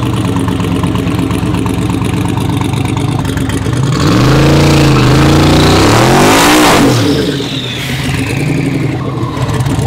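Twin-turbo LS V8 in a 4WD drag truck idling, then about four seconds in revving up and down hard for roughly three seconds with a loud hiss of spinning tyres during a burnout, before settling back to idle. The burnout is kind of weak.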